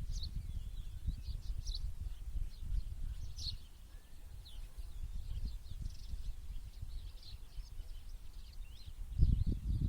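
Small birds chirping, many short high calls overlapping, over a low rumble that swells near the end.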